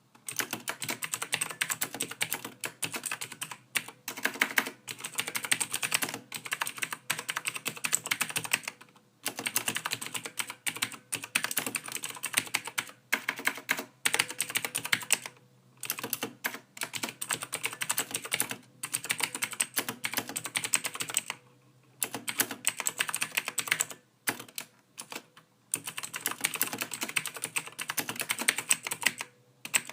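Typing on a computer keyboard: a dense stream of key clicks in runs of a few seconds, separated by brief pauses.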